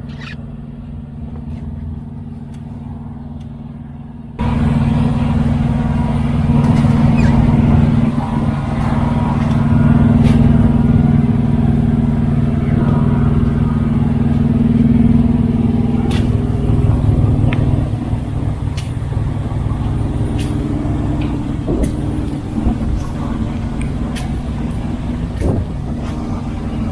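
Semi-truck diesel engine running at idle, a steady low hum that gets suddenly much louder about four seconds in, with scattered clicks and knocks over it.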